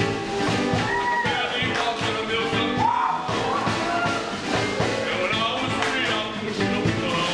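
Rock and roll played by a live band, with a strong steady beat and singing over it.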